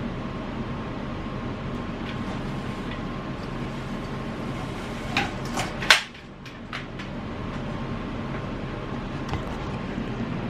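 Steady low rumble like a vehicle running, with a few clicks and one sharp knock about six seconds in, after which the rumble dips briefly before coming back.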